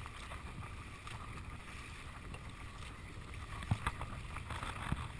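Dragon boat being paddled: steady water and hull noise, with three sharp knocks in the second half.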